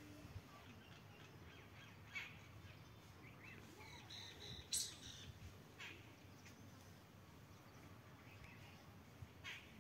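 Near-silent open air with a few faint, short bird calls scattered through. A single sharp click about halfway through is the loudest sound.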